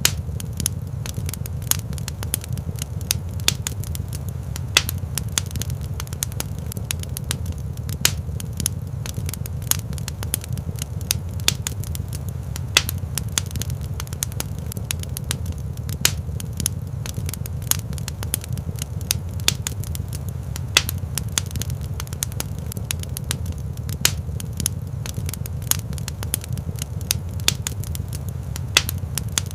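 Fire crackling in a fireplace: irregular sharp pops and snaps, several a second, over a steady low rumble of the burning.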